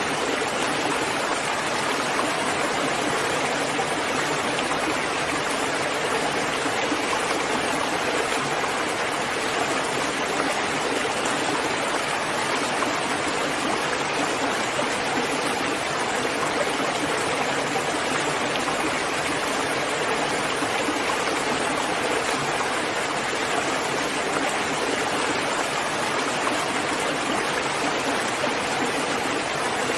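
Steady rain, an even dense hiss of falling water with no separate drops, thunder or other events standing out.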